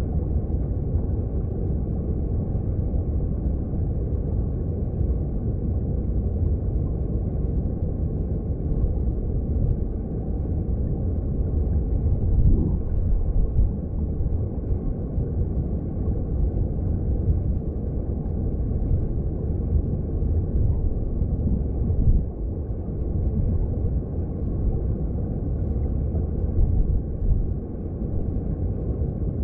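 Mountain stream heard underwater: a steady low rumble of flowing water, with little high-pitched splash and a few brief swells in loudness.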